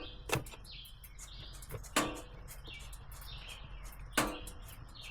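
Birds chirping outdoors, a short chirp repeated about twice a second, with three sharp clicks or knocks about two seconds apart standing out above it.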